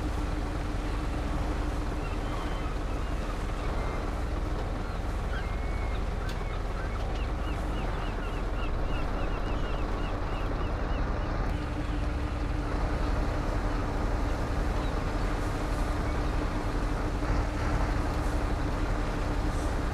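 Truck engine running steadily with a constant hum under road and wind noise while driving.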